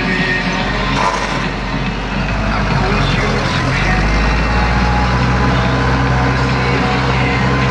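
Tractor engine running steadily under load, heard from inside the cab. The low engine hum grows stronger about four seconds in.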